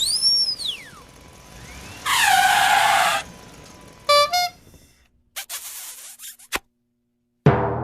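A string of cartoon sound effects: a whistle that rises and falls, a loud honk that drops in pitch, two short toots, a few clicks, then a loud falling tone near the end.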